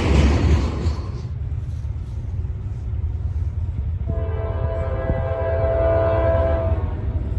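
Locomotive air horn sounding one long blast of several notes at once, about four seconds in, lasting roughly three seconds, over the steady low rumble of a train.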